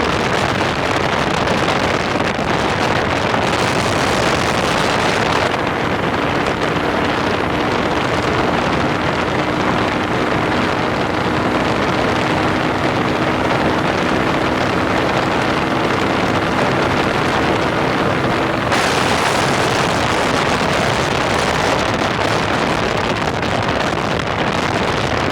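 Heavy wind rushing over the microphone on a 125cc motorcycle at motorway speed, a steady loud roar. Through the middle a faint steady hum from the bike's engine sits under the wind.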